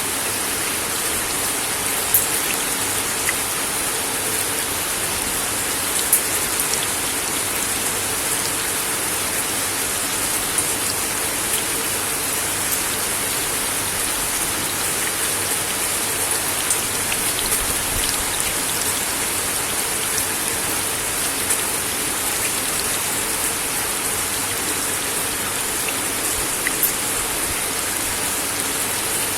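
Steady rain falling on a wooden deck, a constant hiss with scattered sharper drop ticks.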